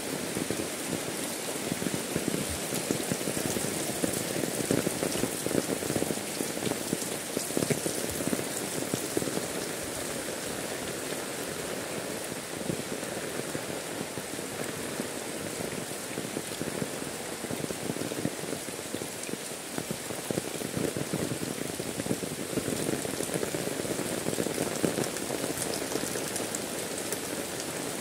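Heavy rain falling steadily, with the dense close patter of drops striking an umbrella overhead.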